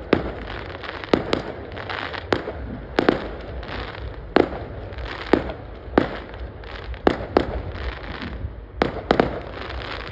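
Fireworks going off: about a dozen sharp bangs at uneven intervals, with a steady mass of fainter crackling pops between them.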